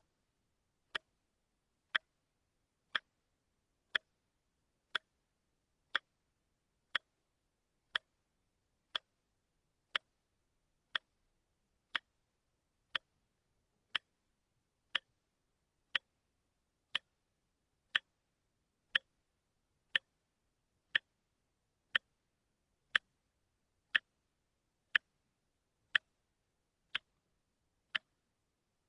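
A watch ticking steadily, one sharp tick each second, with silence between the ticks.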